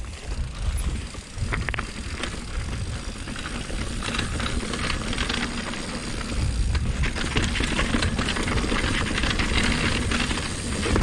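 Hardtail mountain bike riding down a rough trail: tyre noise over the ground, with many short clicks and rattles from the chain and bike. A heavy wind rumble on the microphone grows louder about four seconds in as speed builds.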